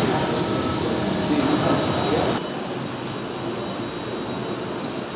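HO-scale model trains running on the layout track, a steady rolling rush with faint high wheel-squeal tones, over the murmur of a busy exhibition hall. The whole sound drops abruptly about two and a half seconds in.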